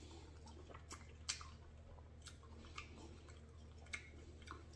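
Faint chewing of a mouthful of barbecue chicken, with a few short wet mouth clicks scattered through.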